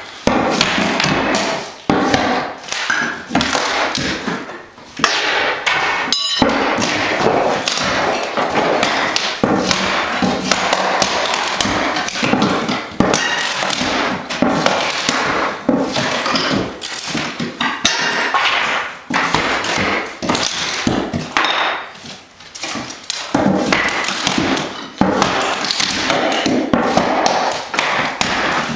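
Old hardwood flooring being pried up and broken out: repeated knocking, banging and clattering of wood pieces.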